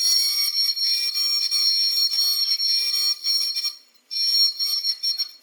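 High-speed milling spindle on a robot arm cutting wood: a steady high whine over a hissing cutting noise, which cuts out briefly about four seconds in and picks up again.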